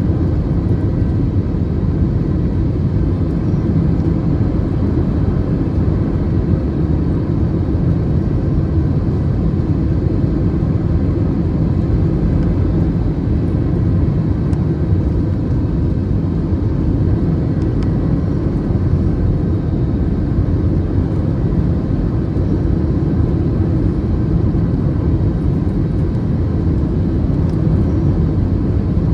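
Steady low rumble of an Airbus A321's engines and airflow heard inside the passenger cabin on landing approach, with no distinct bumps or changes.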